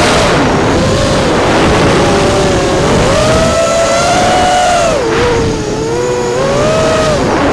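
FPV racing quadcopter's brushless motors and props whining, the pitch swooping up and down with the throttle, over a heavy rush of wind on the onboard camera's microphone. The pitch and loudness drop briefly a little past the middle, then climb again.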